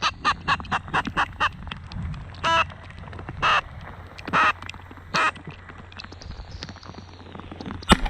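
Duck quacking: a quick run of about seven short quacks, then four single, longer quacks about a second apart. A sharp knock near the end.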